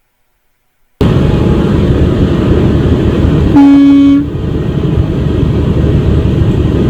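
About a second in, the loud rumble of a moving vehicle's road and engine noise starts abruptly. A little past halfway, a vehicle horn sounds one short blast of under a second.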